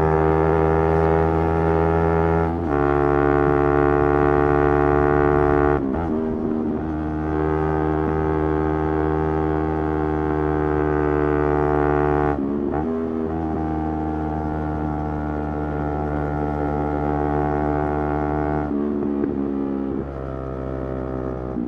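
Motorcycle engine held at steady revs while riding, giving a steady droning tone. A few brief breaks interrupt it, where the pitch wavers and then settles back.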